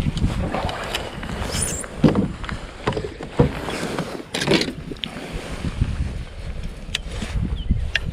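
Water and hull sounds from a Bonafide SS127 plastic fishing kayak: irregular splashes and knocks against the hull, several in a few seconds, over a low rumble of wind on the microphone.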